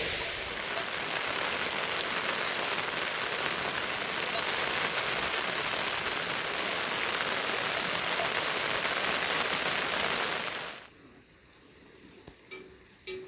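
Heavy rain falling as a steady, dense hiss that cuts off abruptly about eleven seconds in, leaving a much quieter stretch with a few faint knocks near the end.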